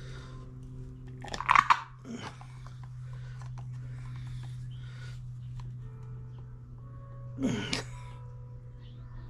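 A steady low hum, with two short bursts of crunching, crinkling handling noise: one about one and a half seconds in, and one near the end.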